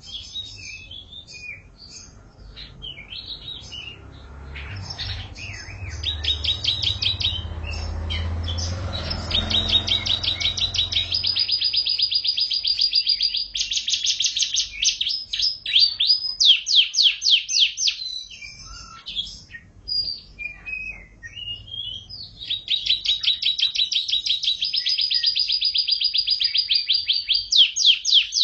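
Domestic canary singing its song: twittering phrases broken by long fast trills of repeated notes, several held for a few seconds at a time. A low rumble runs under the first part of the song.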